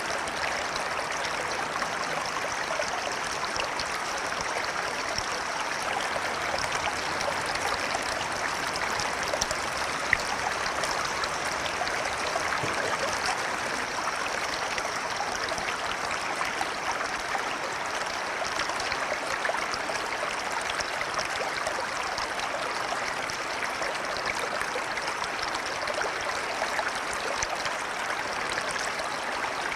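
River water flowing, a steady even rushing and babbling with no pauses; a single brief tick stands out about ten seconds in.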